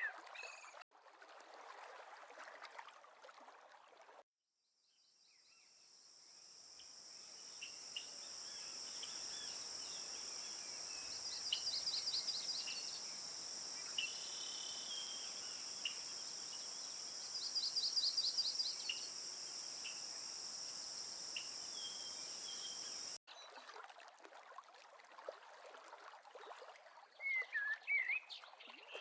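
Outdoor ambience of birds chirping and calling. After a short drop-out about four seconds in, a steady high-pitched insect chorus fades in and runs for roughly twenty seconds, with repeated bird trills over it. It cuts off abruptly, and scattered birdsong returns.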